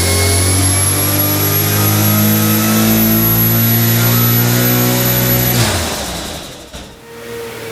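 Nissan RB25DET turbocharged straight-six on an engine dyno making a pull under load, its note and a high turbo whine climbing slowly in pitch. About five and a half seconds in the throttle closes and the revs drop away, and the engine settles back toward idle near the end.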